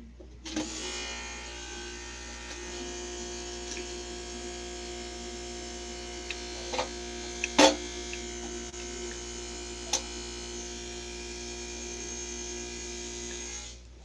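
A small electric motor runs with a steady buzzing hum, switched on about half a second in and off near the end. A few sharp clicks or knocks sound over it around the middle.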